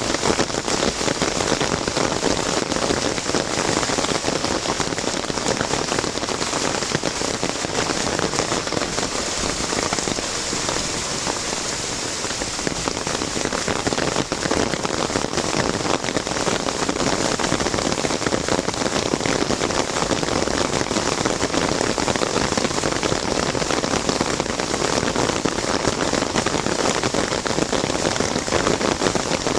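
Heavy rain falling on an umbrella: a dense, steady patter of countless drops.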